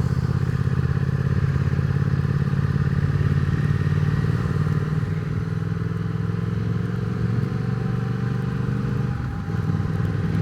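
Triumph Speed Twin 1200's parallel-twin engine running steadily under way, its pitch creeping up slowly. It drops briefly about nine seconds in, then picks up again.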